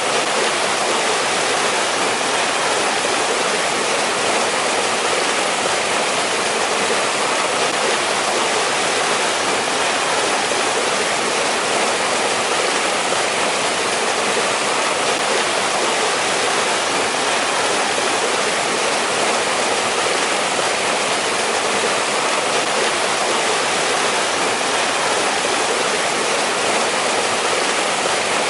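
Mountain stream rushing steadily over rocks, an even hiss of flowing water with no breaks.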